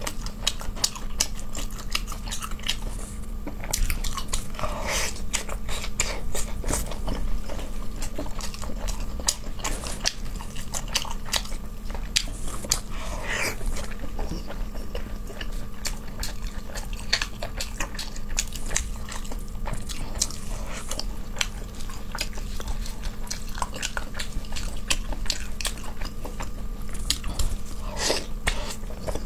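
Close-miked chewing and biting of cooked fish, with dense, irregular wet mouth clicks and smacks.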